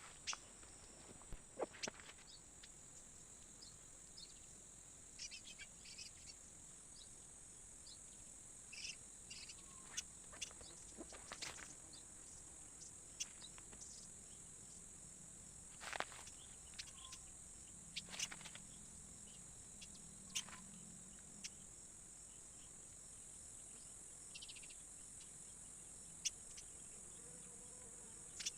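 Forest insects droning steadily at a high pitch, with scattered short clicks and taps.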